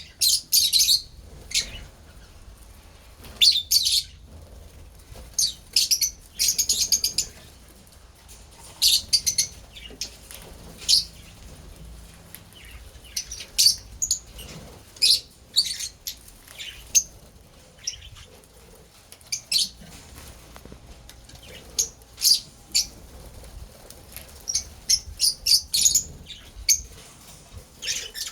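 Lovebirds chirping: short, high-pitched bursts of rapid chirps, coming irregularly every second or two.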